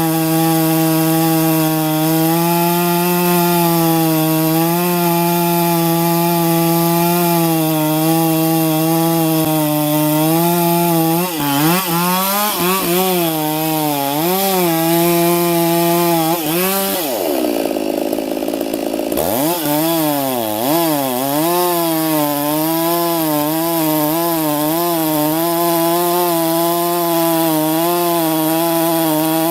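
Two-stroke chainsaw running at high revs while cutting wood, its pitch wavering as the load on the chain changes. About two-thirds of the way through, the revs drop for a moment and climb back up.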